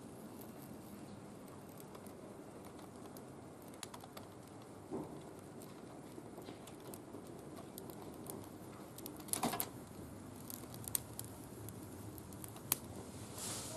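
Wood fire burning in a barbecue grill, crackling with scattered small ticks and pops, a few of them louder and sharper in the second half.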